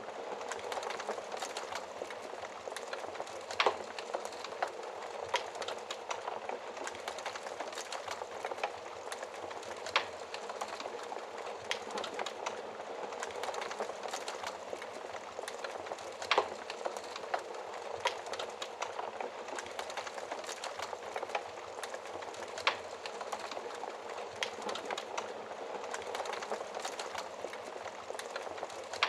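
Wood fire crackling steadily in a fireplace, with a constant hiss and many small ticks, and a few louder sharp pops about every six seconds.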